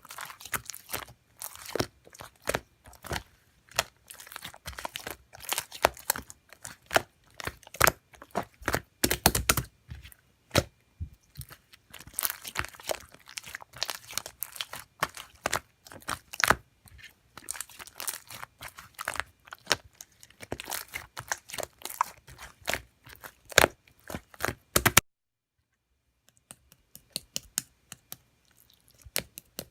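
Slime being squished, stretched and pressed by hand, giving dense, irregular crackling and popping clicks. The sound cuts off suddenly about 25 seconds in, leaving only a few faint clicks.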